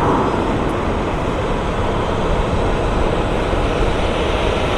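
Jet engines of a departing Southwest Airlines Boeing 737 at takeoff thrust: a loud, steady rushing noise.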